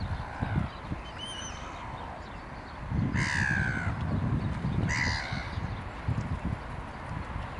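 Two harsh, falling bird calls, a longer one about three seconds in and a shorter one about five seconds in, over a steady low rumble.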